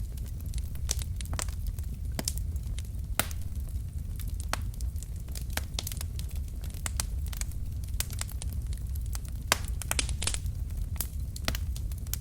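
Wood fire burning in a fireplace: a steady low rumble of the flames with irregular crackles and sharp pops from the burning logs.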